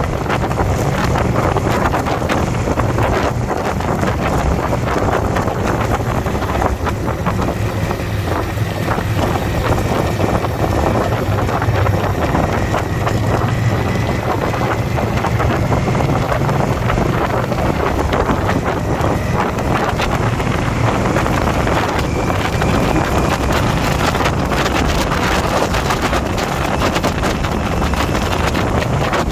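Indian motorcycle's V-twin engine running steadily at cruising speed, heavily mixed with wind buffeting on the microphone.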